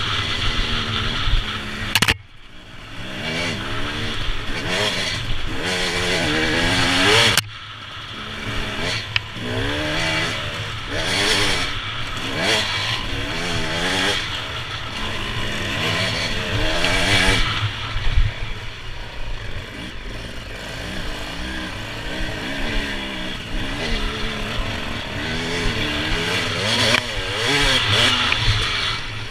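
Motorcycle engine on the move, the revs rising and falling over and over as the rider works the throttle, with sudden sharp drops in revs about two seconds and seven and a half seconds in.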